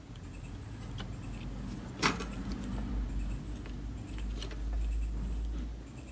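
Handling noise from repair work on an inverter: a sharp click about two seconds in and a few lighter clicks and taps over a low rumble.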